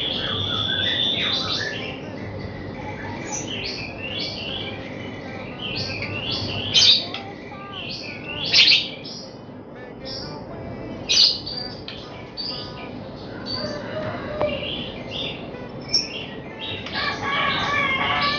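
White-rumped shama (murai batu) singing: a run of varied short whistled and sweeping phrases, broken by a few loud, sharp notes in the first half.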